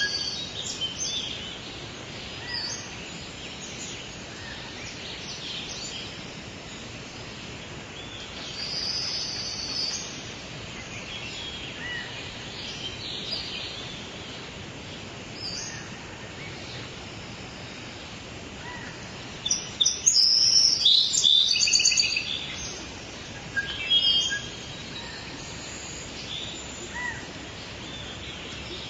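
Songbirds chirping and singing over a steady outdoor background hiss. A burst of rapid chirps and trills about two-thirds of the way through is the loudest part.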